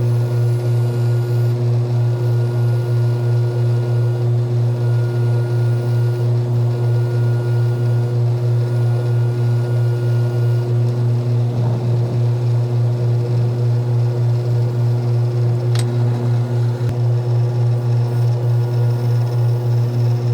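A small motor running steadily with a low hum that pulses about three times a second, and a single sharp tick about sixteen seconds in.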